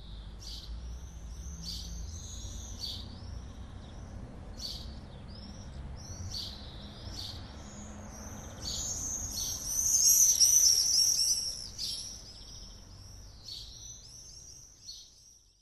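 Small birds chirping, many short high-pitched calls overlapping and growing busiest and loudest about ten seconds in, over a low steady rumble; the sound cuts off suddenly at the end.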